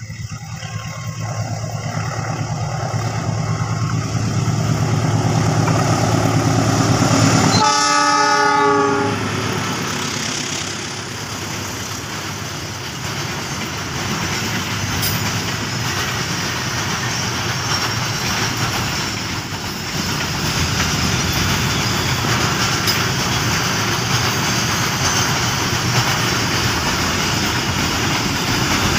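Diesel-hauled container freight train approaching and passing close by: the locomotive's engine grows louder for about eight seconds, its horn gives a short blast as it passes, then the container flat wagons roll by with a steady rumble and wheel clatter.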